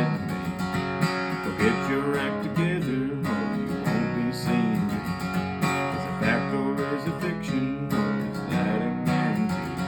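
Strummed acoustic guitar playing an instrumental passage of the song.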